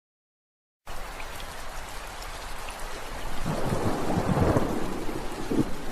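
Steady heavy rain cuts in abruptly out of dead silence about a second in. From about three seconds in, a low roll of thunder rumbles under it and fades shortly before the end.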